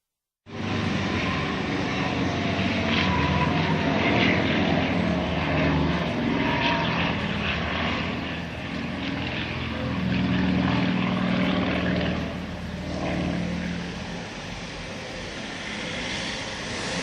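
Propeller engines of small aerobatic planes flying overhead, droning and wavering in pitch as they manoeuvre. The sound starts abruptly about half a second in, is loudest around four and ten seconds in, and eases off in the last few seconds.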